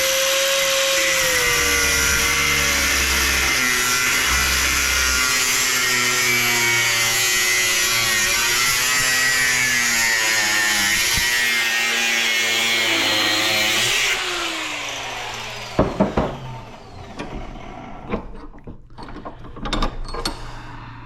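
An electric power tool's motor runs at full speed, its pitch sagging slowly as it works. About 14 seconds in it is switched off and winds down. Scattered knocks and rattles follow as parts are handled.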